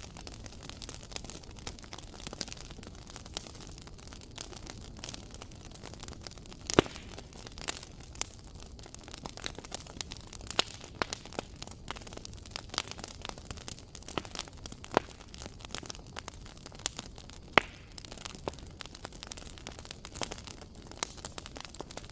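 Wood fire crackling in a fireplace: a steady low hiss with frequent irregular snaps and pops, two sharper pops standing out.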